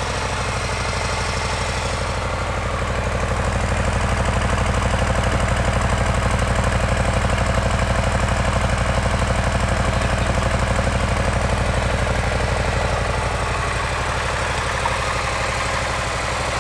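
A 2018 Harley-Davidson Fat Boy 114's fuel-injected V-twin idling just after starting, an even pulsing beat. It grows a little louder for a while, then eases back.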